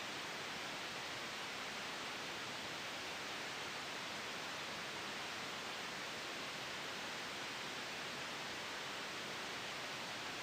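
Steady white noise: an even, unchanging hiss, brightest in the upper range, with no swells or breaks.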